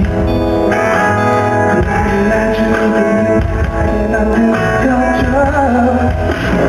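Live pop music from a band, recorded from the audience: held chords with guitar, and a voice singing near the end.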